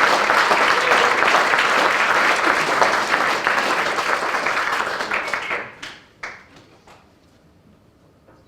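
Audience applauding, dense clapping that dies away about two-thirds of the way through, leaving a few last claps.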